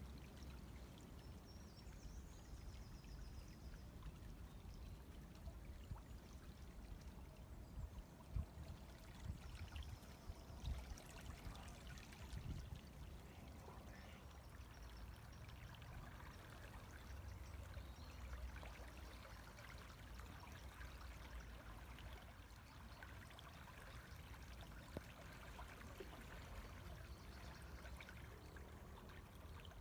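A river flowing steadily, with a soft, continuous rush and trickle of water.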